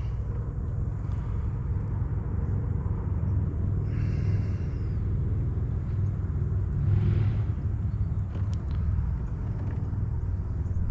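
Wind buffeting the microphone: a steady, uneven low rumble, with two brief hissing swells about four and seven seconds in.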